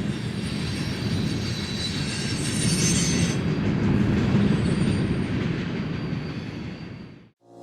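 A train passing close by, with a steady rumble of wheels and a high wheel squeal that rises for a while about two to three seconds in. The sound fades out near the end.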